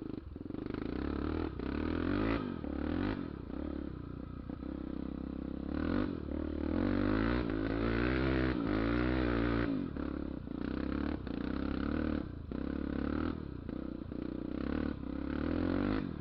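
Honda XR 250 Tornado's single-cylinder four-stroke engine running under way, its engine speed rising and falling, loudest about six to ten seconds in. Repeated clattering knocks come through over the engine.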